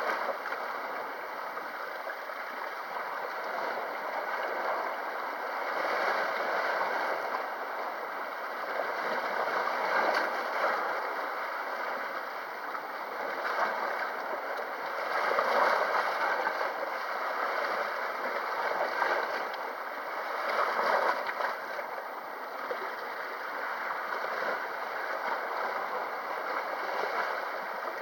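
Sea waves washing on the shore: a steady rush of water that swells and eases every few seconds.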